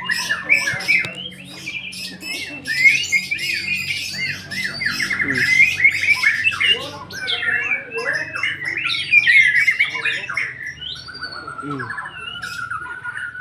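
White-rumped shama (murai batu) in full song: a long, unbroken run of rapid rising and falling whistles, trills and harsh chattering notes.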